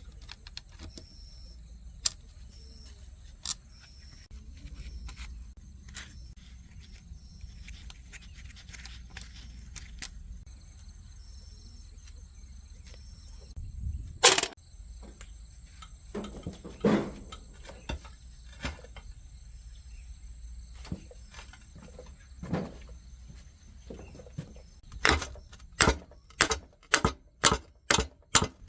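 Scattered clicks and knocks over a low steady hum, with one loud knock about halfway through and a run of quick, regular knocks, about two or three a second, near the end. A faint, pulsing, high chirp like an insect sits behind it.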